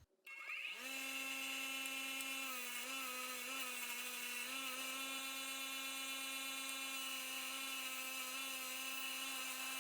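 A small electric power tool spins up to speed and runs steadily with a high whine, cleaning up a bolt. Its pitch sags briefly a few times in the first few seconds as the bolt is pressed against it.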